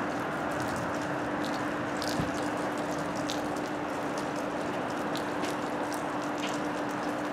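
Container freight train running away on the rails: a steady rolling rumble with scattered light clicks and rattles from the wagons, and a single low thump about two seconds in.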